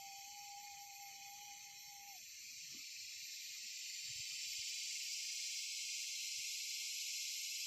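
Insect chorus: a steady high chirring hiss that grows louder about three seconds in, with a single steady tone that stops about two seconds in.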